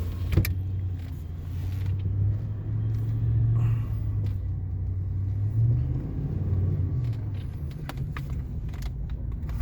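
The 6.0-litre V8 of a 2005 GMC Sierra 2500HD running as the truck drives slowly, heard from inside the cab as a steady low rumble. A sharp click comes about half a second in, and a few fainter ones near the end.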